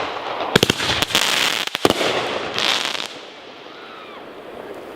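Consumer fireworks cake firing its finale: sharp bangs and dense crackling for about three seconds, then it dies down to a faint hiss with a few distant whistles.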